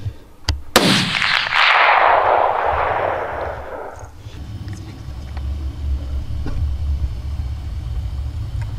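A hunting rifle shot about a second in, its report rolling away as a long echo that falls in pitch and fades over about three seconds. A low steady rumble follows.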